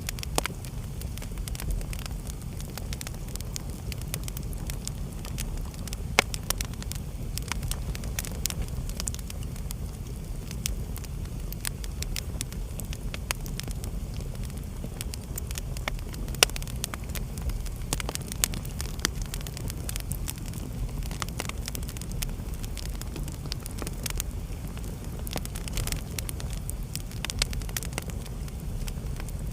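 Wood fire burning in a fireplace: a steady low rumble of the flames with irregular sharp crackles and pops, a few louder pops standing out.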